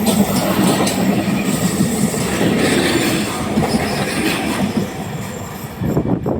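Regional passenger train running close by, its wheels rolling over the rails with a steady low hum, growing quieter near the end.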